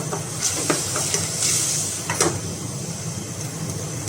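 Ginger-garlic paste cooking down in water in a pan, a steady hiss over a low hum as the water is boiled off before oil goes in. A few brief scraping strokes come through, about half a second in and again around two seconds in.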